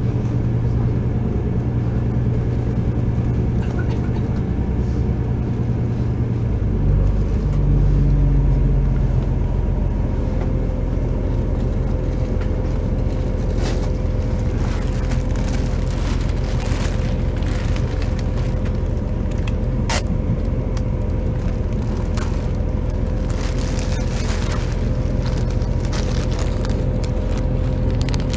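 Diesel passenger train heard from inside the carriage, its engine and running gear giving a steady low rumble. About seven seconds in the engine note changes and grows louder as the train picks up; after that a steady hum and a faint whine run under the rumble, with occasional sharp clicks from the wheels and track.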